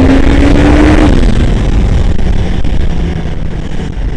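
Honda CBR650R inline-four engine pulling under acceleration, its pitch rising and then dropping away about a second in, under heavy wind rumble on the microphone; the level eases toward the end.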